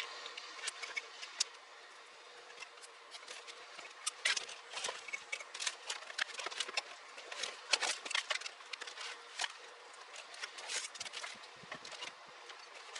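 Irregular sharp clicks and rustling of plastic wiring harness and zip ties being handled and fastened under a car's dashboard.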